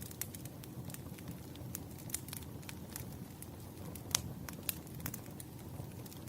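Wood fire crackling: frequent irregular sharp pops over a low steady rumble, with one louder pop about four seconds in.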